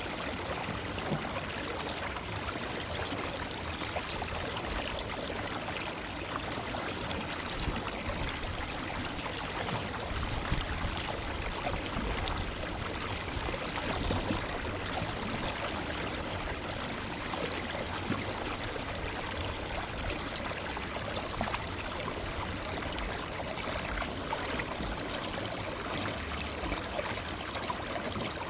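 Forest river flowing steadily, a continuous rush of water with fine splashing and trickling over rocks.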